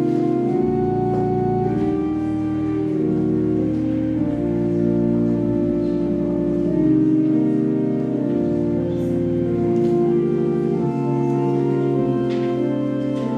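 Organ music playing slow sustained chords over held bass notes, as a prelude at the start of a worship service.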